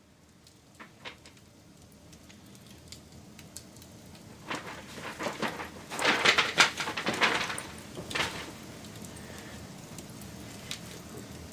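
Wood fire crackling: scattered pops build to a dense burst of crackling and popping about halfway through, then it settles back to a steady hiss with an occasional pop.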